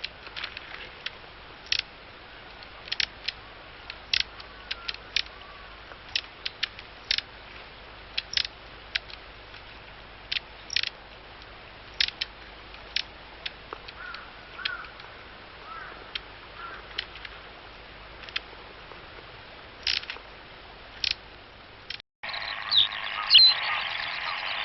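A wild bird giving short, sharp, high call notes at irregular intervals, one or two a second, over faint background hiss. About 22 s in the recording cuts off and a louder, busier stretch of bird song begins.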